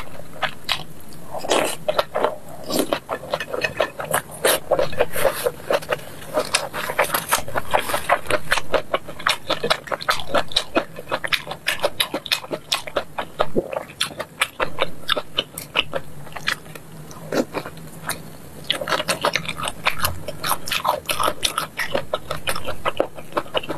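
Close-miked wet chewing of chewy grilled sweet-potato starch sheets (tiaopi) in spicy sauce: rapid, dense sticky mouth clicks and smacks.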